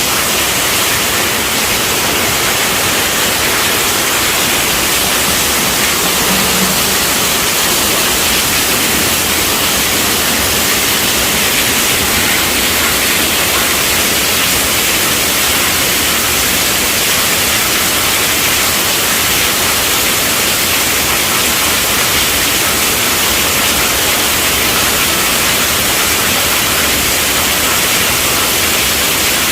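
Heavy rain pouring steadily on a tent roof, an even loud hiss with no let-up and no thunder.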